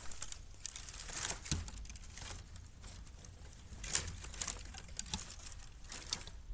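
Bamboo burning in a bottomless 18-litre square metal can, crackling with irregular sharp pops, a couple of them louder.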